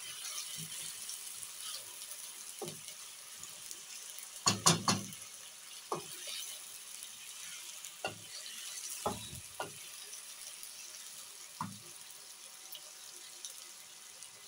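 Sliced potatoes frying in hot oil with a steady sizzling hiss, while a wooden spatula knocks and scrapes against the pan as they are stirred. The loudest part is a quick cluster of knocks about four and a half seconds in, and single knocks follow every second or two.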